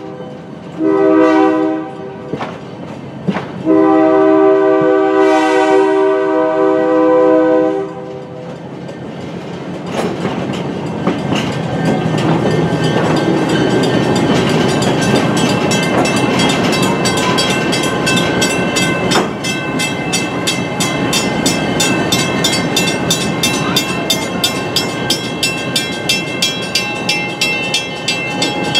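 Diesel locomotive air horn sounding a chord: a short blast, then a long one of about four seconds, fitting the closing short-long of a grade-crossing signal. The train then rolls on with a steady rumble and a regular clickety-clack of wheels over rail joints, with a couple of sharper clicks.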